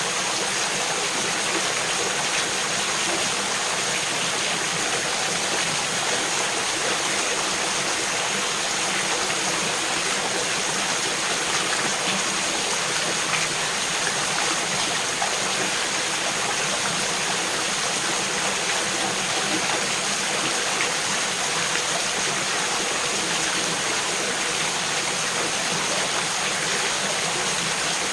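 A small mountain stream running steadily, an even, unbroken rush of water.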